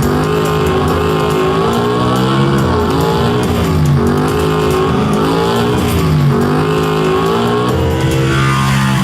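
Motorcycle engine revving hard, its pitch climbing and then dropping sharply several times as the throttle is opened and shut. It is played back through a hall's speakers.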